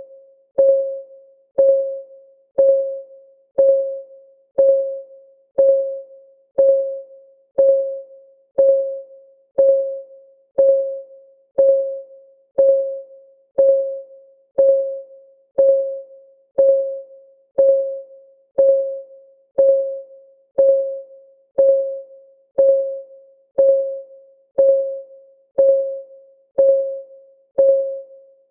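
Countdown timer's clock-ticking sound effect: one short tick per second, evenly spaced. Each tick is a clean, mid-pitched tock that dies away quickly.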